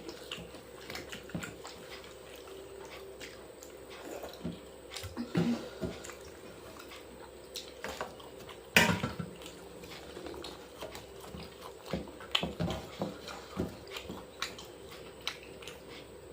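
People eating by hand: chewing and the wet squelch of fingers working water-soaked rice (panta bhat), with scattered small clicks and one sharp knock about nine seconds in.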